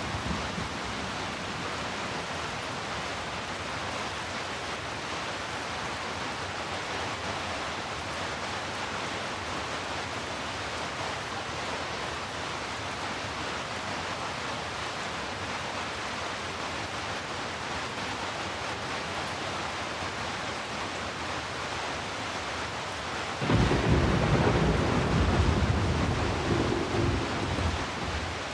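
Heavy rain falling steadily as a dense, even hiss. About 23 seconds in, a low rumble of thunder comes in suddenly, becomes the loudest sound, rolls for several seconds and fades near the end.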